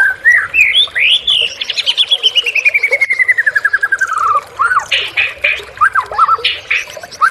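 White-rumped shama (murai batu) in full song: clear whistled notes that swoop up and down, then a long rapid trill that slides steadily down in pitch over about three seconds, followed by a few harsh rasping notes and more short whistles.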